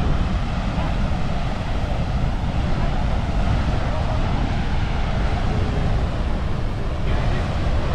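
Steady rush of the flooded Blue Earth River pouring through Rapidan Dam, with the heaviest weight in the low end and no let-up.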